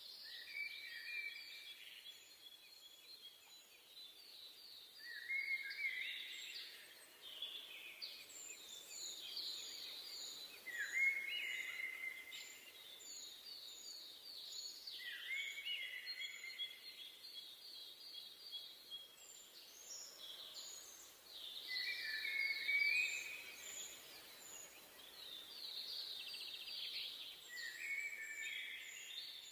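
Forest birdsong: a songbird repeating a phrase of a rapid trill with lower sliding notes about every five seconds, with short high chirps from other birds over a soft steady background hiss.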